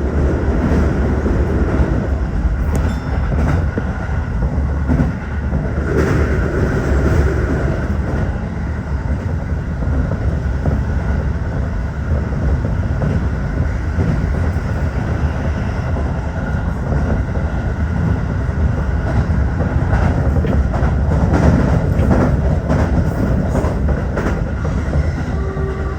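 Tokyo Metro 15000 series electric train running at speed, heard from on board: a steady rumble with occasional clacks of the wheels over rail joints.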